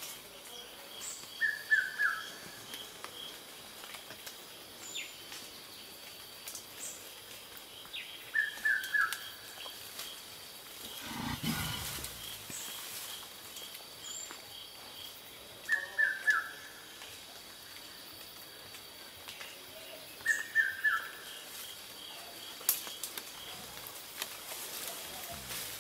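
Forest birdsong: a short run of quick falling notes repeats four times, every six or seven seconds, over faint rapid chirping. A single low grunt from a mountain gorilla comes about halfway through.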